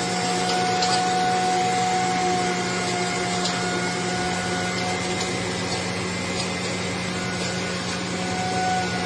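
Road construction machinery running steadily: a constant drone with a low hum and a steady whine above it, and faint scattered ticks.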